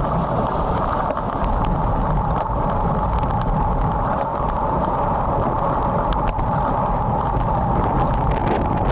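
Steady rushing wind noise on a bike-mounted action camera's built-in microphone while riding in strong wind, with faint scattered ticks.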